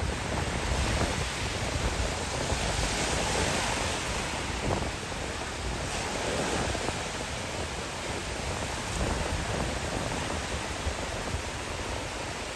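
Sea waves breaking on the shore: a continuous wash of surf that swells and eases every few seconds.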